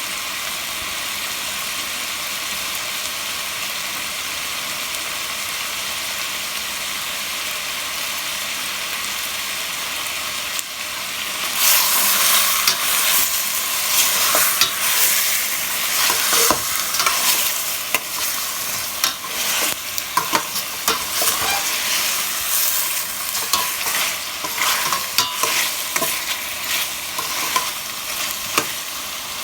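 Chicken pieces frying in oil in a pan: a steady high sizzle, which about eleven seconds in turns suddenly louder and crackling, with sharp clicks and scrapes as the chicken is stirred. The chicken is browning and giving up its fat.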